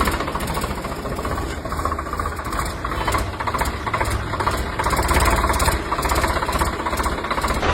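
Small engine of a DIY mini tractor running steadily with a fast, even beat.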